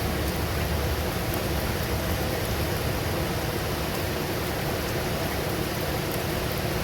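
Steady rain falling during a thunderstorm, an even hiss, with a low rumble dying away in the first second or two.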